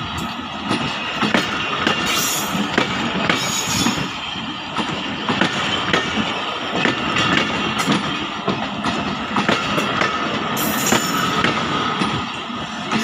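Passenger train coaches rolling past close by: the wheels clatter over the rail joints in an irregular run of clicks, with a thin, steady wheel squeal under it.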